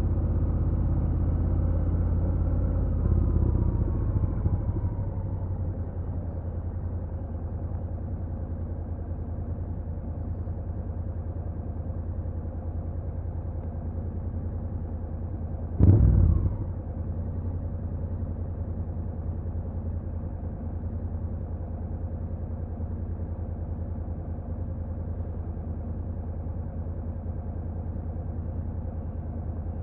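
Honda NC750X parallel-twin engine winding down over the first few seconds and settling into a steady low run, like an idle. About halfway through comes one short, loud burst, like a blip of the throttle.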